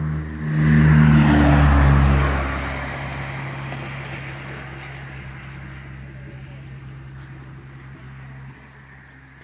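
A vehicle engine revs up sharply about half a second in, its pitch climbing, then the sound fades steadily as it pulls away.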